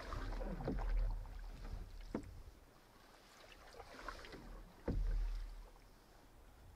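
Canoe paddle strokes in lake water, a splash and low knock recurring about every two and a half seconds.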